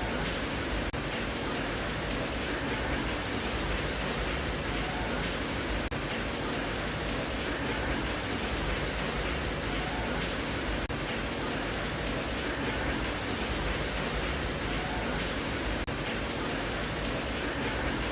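Steady rain, an even hiss with no breaks or changes.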